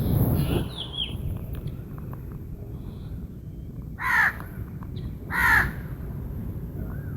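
A crow cawing twice, two short harsh calls about four and five and a half seconds in, over a steady low rumble, with a brief burst of low noise at the very start.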